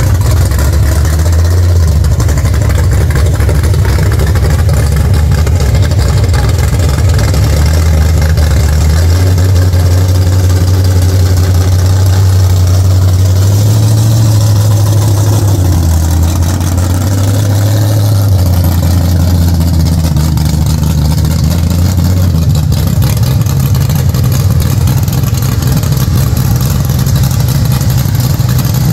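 1970 Ford Maverick drag car's engine running with a loud, low exhaust rumble that shifts up and down in pitch a few times.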